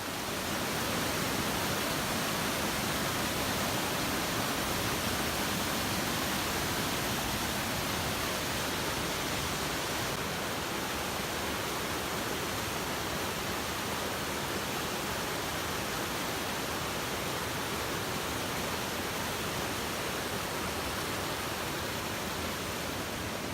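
Waterfall rushing with a steady, even noise of falling water that does not change.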